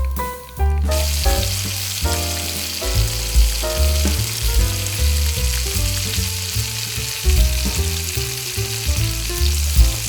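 Food sizzling as it fries in a hot pan, the sizzle starting suddenly about a second in, with background music playing throughout.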